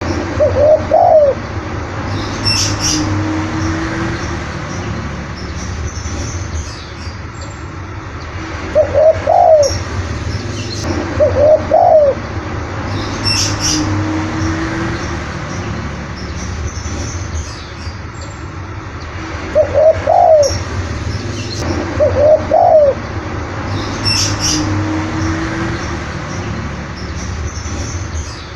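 Spotted dove (tekukur) cooing: short phrases of rising-and-falling coos, each followed by a longer low note, repeating about every eleven seconds. Brief high chirps from another bird come between the phrases.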